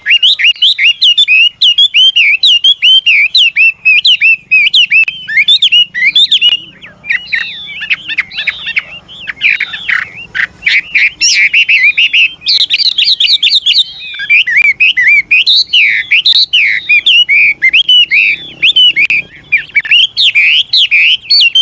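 Chinese hwamei (họa mi) singing loudly and continuously: a rapid run of rising and falling whistled notes that keeps changing phrase. It is the song of a mature wild-caught decoy bird, used to stir newly caught hwameis into singing.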